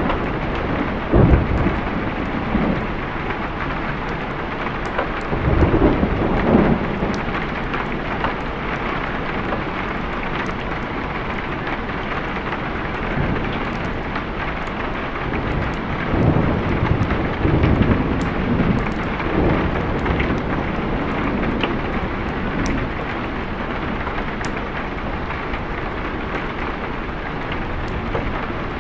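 Steady heavy rain with rolls of thunder: a sharp rumble about a second in, another swell a few seconds later, and a longer rolling rumble past the middle.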